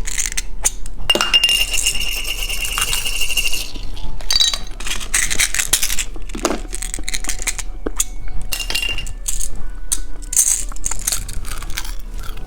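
Light clicks and clinks of small hard-plastic candy toys and their packaging being handled, over background music.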